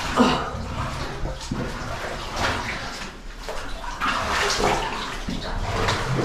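Cave stream water splashing and running, swelling and easing in uneven surges.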